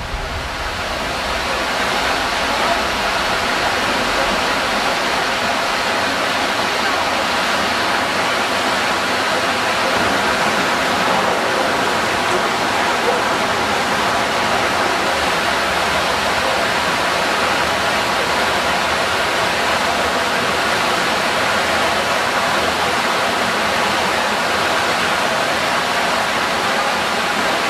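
Heavy tropical rain pouring down steadily, a dense, even hiss of falling water.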